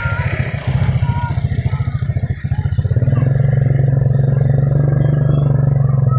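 An engine running with a fast, even pulse, settling into a steady note about halfway in; a few faint short chirps sound over it.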